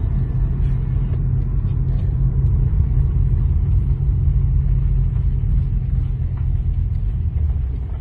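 Steady low rumble of a car in motion, heard from inside the cabin: road and engine noise with no sudden events.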